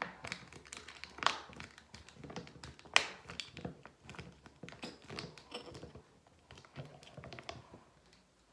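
Plastic bottle and tube of a hair dye kit being handled: irregular small clicks and taps, with two louder sharp clicks about a second and three seconds in.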